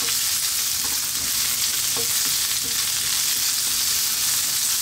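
Sliced onion, garlic and ginger sizzling steadily in hot oil in a wok, while a wooden spatula stirs them with a few light scrapes and knocks against the pan.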